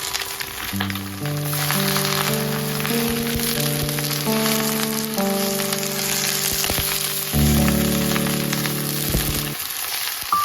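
Food sizzling steadily as it fries in hot oil in a pan, with background music of sustained notes playing over it.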